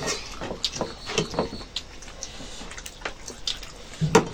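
Close-up eating sounds of rice and chicken curry: wet chewing, smacking and squishing, made up of scattered short clicks, with a sharper knock near the end.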